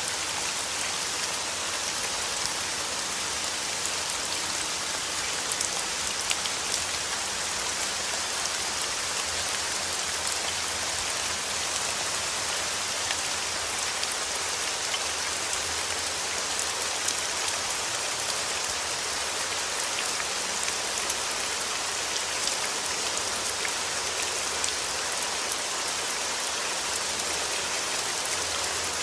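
Steady rain falling, a dense even hiss speckled with many small drop ticks, unchanging throughout.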